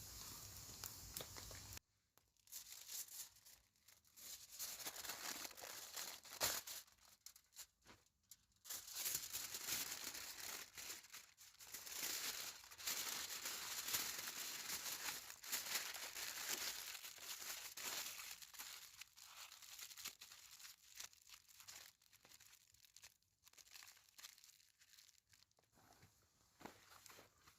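Irregular crinkling and rustling in uneven bursts with short pauses, after a faint steady noise that cuts off about two seconds in.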